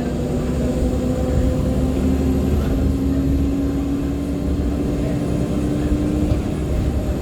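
Inside a 2014 NOVA LFSA articulated hybrid bus under way, driven by a Cummins ISL9 diesel and an Allison H50 EP hybrid drive: a steady low drivetrain and road rumble. A droning tone rises slowly over several seconds as the bus gathers speed, with a faint high whine above it.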